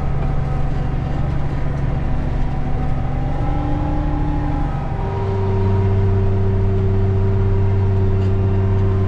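Large farm diesel engine running steadily under way. About five seconds in the engine note changes and gets a little louder.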